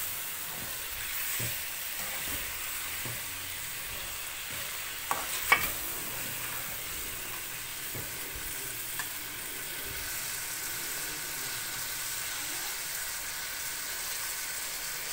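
Chicken and vegetables sizzling in a steel pot as they are stirred with a metal spoon: a steady frying hiss, with a few sharp clinks of the spoon on the pot, the loudest about five and a half seconds in.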